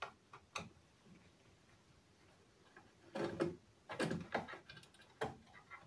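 Faint clicks and scrapes of a screwdriver and small metal parts as the top screws on the front of a Grundig 4040W radio are undone. A few separate clicks come in the first second, then bunches of clicking and scraping from about three seconds in.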